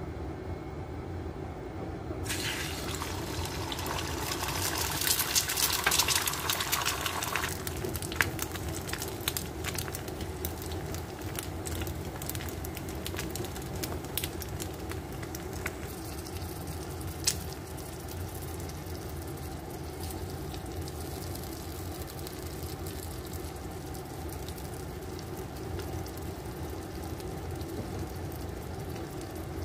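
Beaten egg hitting hot oil in a pan: a sudden loud sizzle starts about two seconds in and dies down after a few seconds. The egg then fries with scattered crackles and pops over a steady low hum.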